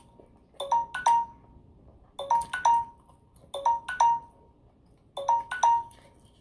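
An electronic chime repeating about every one and a half seconds. Each repeat is three quick ringing pings, the last held a little longer.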